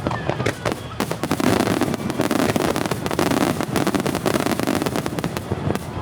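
Fireworks display: a dense barrage of shells bursting and crackling in quick succession, heaviest from about a second in until near the end.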